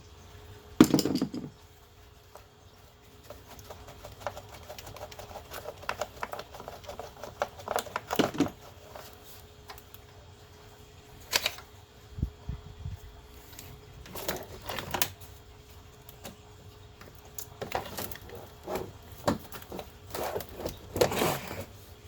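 Hand-tool work on a stuck part in a car's engine bay: a hard metal strike about a second in, then scattered knocks, clicks and clatter as the seized part is worked loose.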